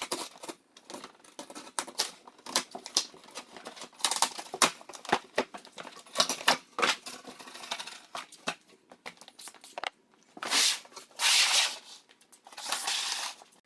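Cardboard box and packing material being handled while a new lawn mower is unpacked: a quick run of knocks and clicks, then near the end three longer rustling noises of about a second each.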